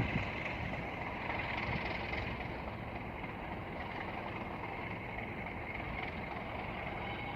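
Class 37 diesel-electric locomotive running as a light engine and pulling away, giving a steady engine sound with a faint high whine.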